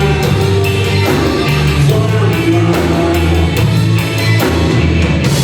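Live rock band playing an instrumental passage between sung lines, with drums keeping a steady beat under bass and other instruments.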